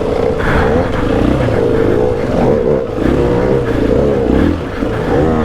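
KTM 500 EXC-F dirt bike's single-cylinder four-stroke engine running, its pitch rising and falling again and again with the throttle.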